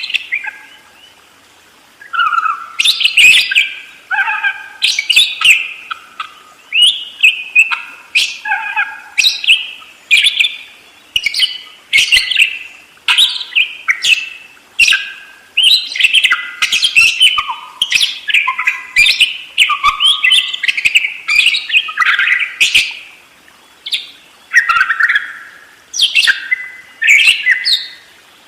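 Budgerigar chattering and warbling without pause: quick chirps, squeaky warbled phrases and sharp clicks, with a short lull about a second in.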